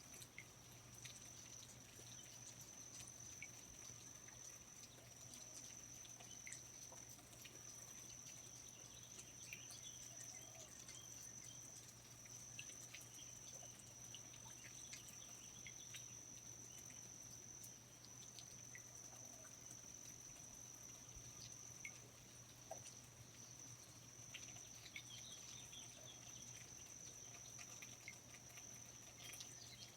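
Faint rainforest ambience: a steady high-pitched insect drone, with scattered short bird chirps and light drips over a low steady hum.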